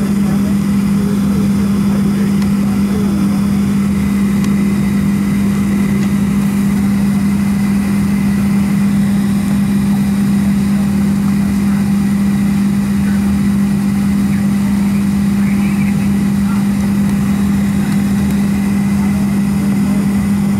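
Steady cabin drone of a Boeing 737-700 sitting at the gate: a strong low hum held at one pitch over an even airy hiss, unchanging throughout.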